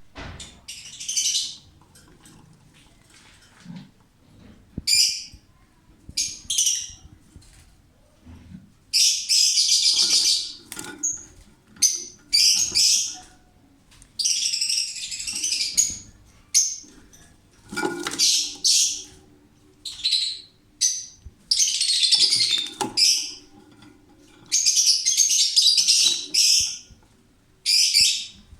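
Lovebirds giving harsh, raspy screeching calls in repeated bursts, some short and some running for a second or more, with short quiet gaps between them.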